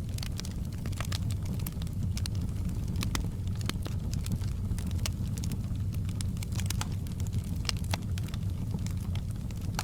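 Fire in a fireplace crackling, with frequent sharp irregular pops over a steady low rumble of the flames.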